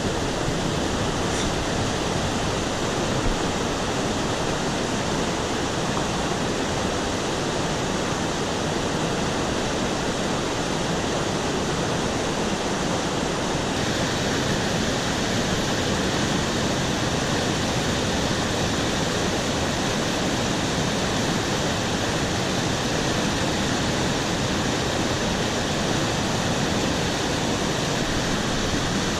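Monsoon-swollen mountain stream rushing in flood: a loud, steady wash of water noise with no breaks, growing slightly brighter about halfway through.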